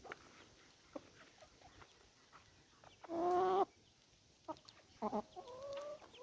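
Backyard chicken calling: one loud, short call about three seconds in, then a few quick clucks and a softer, wavering call near the end, with faint scattered ticks between.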